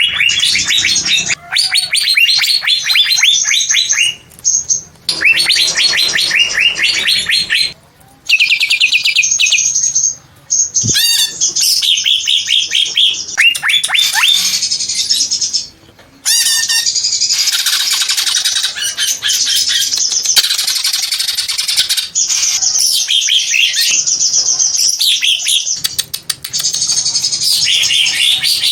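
Green leafbird (cucak ijo) singing: long runs of rapid, high chirps and trills in phrases a few seconds long, broken by brief pauses.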